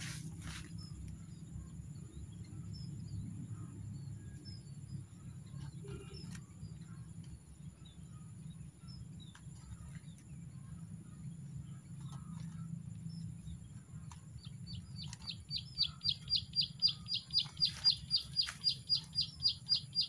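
Small bird calling: faint scattered high chirps, then, about three-quarters of the way in, a loud rapid run of high chirps at about five a second, over a steady low background rumble.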